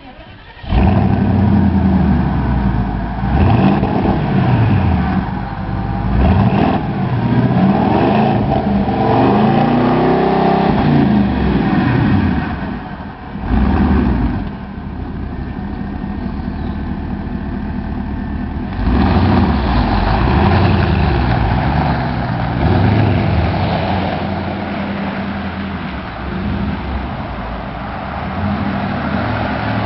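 Porsche Cayenne Turbo (955) twin-turbo V8 engine running loudly, its pitch rising and falling several times as it revs and accelerates, then running more steadily in the second half.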